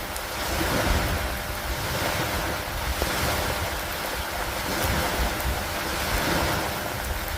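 Steady rain falling, swelling and easing every few seconds, over a ragged low rumble of wind.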